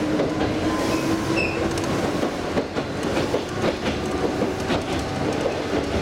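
Mizuma Railway electric train running, heard from inside the carriage: steady running noise with a constant hum and clicks from the rail joints. A hanging wind chime rings briefly about a second and a half in.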